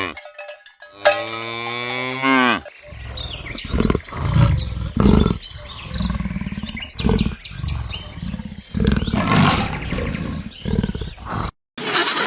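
A falling pitched moo in the first two seconds or so, then a lion roaring in a series of low, rough calls and grunts with short pauses between them.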